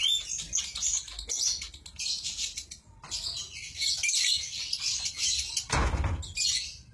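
Lovebird chattering in fast, dense runs of high-pitched chirps, the frenzied 'konslet' song, with a short break about three seconds in. Near the end a brief low rustle or thump cuts through.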